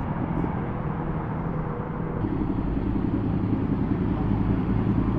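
Superbike engine idling steadily, its note shifting slightly about two seconds in.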